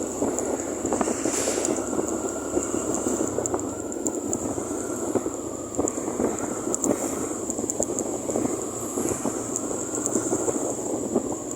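Motorcycle on the move: steady road and engine noise with wind buffeting the microphone, a steady high-pitched hiss and scattered small crackles.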